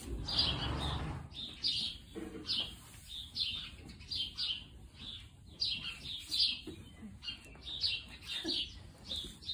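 Small birds chirping over and over, short high chirps about twice a second, with a brief low rumble in the first second.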